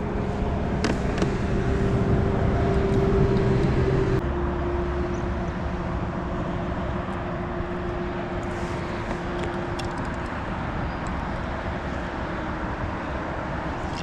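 A motor engine drones steadily as a constant hum over a rushing background noise. The hum is loudest for the first four seconds, then drops slightly in pitch and fades.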